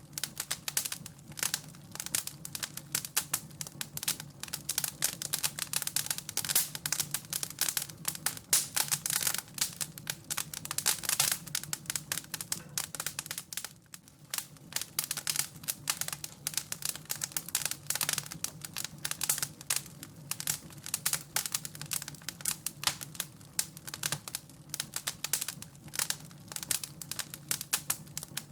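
Wood fire crackling in a fireplace: dense, irregular pops and snaps over a low steady hum, with a brief lull about halfway through.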